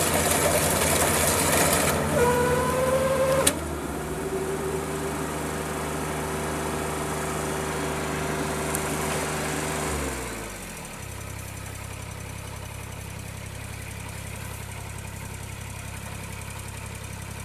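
Kubota DC-35 combine harvester's diesel engine running at speed. A rising whine about two seconds in is cut off by a sharp click, and a steadier whine follows. About ten seconds in the engine winds down and settles to a steady idle.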